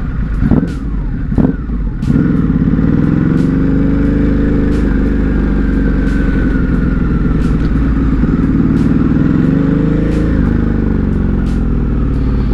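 Ducati Hypermotard 950's L-twin engine under way, with two short jolts in the first couple of seconds, then a steady pull whose pitch rises slightly and eases off near the end.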